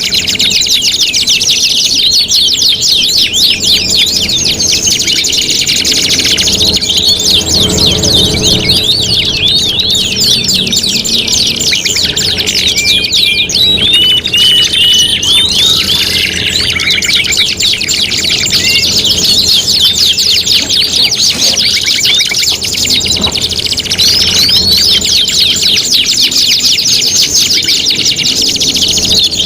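Several domestic canaries singing at once, a dense unbroken stream of fast rolling trills and chirps. About halfway through, a slower run of separate whistled notes stands out.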